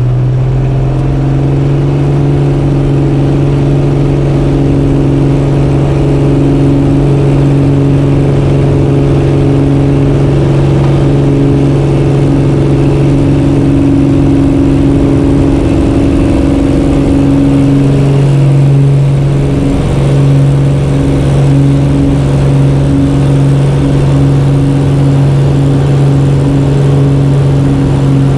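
Cessna 210K's piston engine and propeller at high takeoff power: a loud, steady drone that rises briefly in pitch at the very start and then holds.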